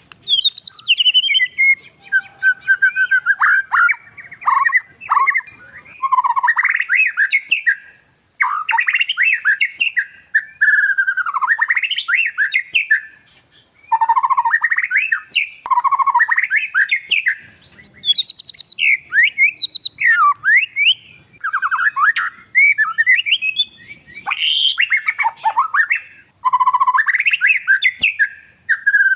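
Oriental magpie-robin (kacer) singing hard: a fast, varied run of whistled notes, slurs and chattering phrases, delivered in bursts of one to three seconds with short pauses between them.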